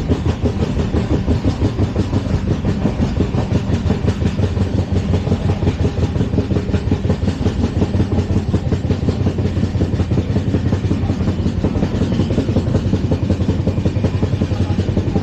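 LHB passenger coach running at speed: wheels on the rails giving a loud, steady rumble with a fast, even rattling pulse, about five beats a second.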